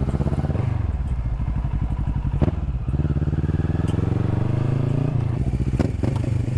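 Yamaha MT-07 parallel-twin motorcycle engine accelerating through the gears. Its pitch climbs and then drops at an upshift about half a second in, and again just after five seconds. Two sharp clicks sound in the middle and near the end.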